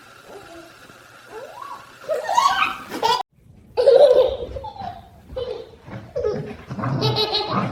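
A baby laughing and giggling in bursts, starting about two seconds in. It breaks off abruptly for a moment just after three seconds, then picks up again.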